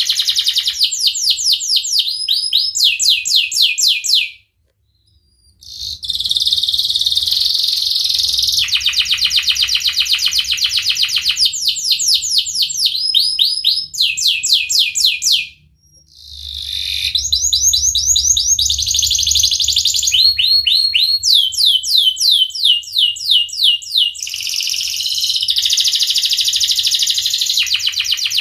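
Domestic canary singing vigorously: long phrases of fast repeated notes and rolling trills, one phrase running straight into the next, broken off twice by short pauses.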